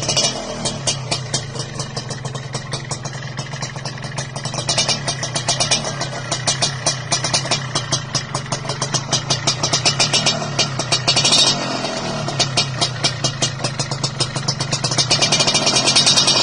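Motorcycle engine running through a chrome 'king udang' racing exhaust, a fast, even pulsing beat. The throttle is blipped a few times, and it is loudest near the end.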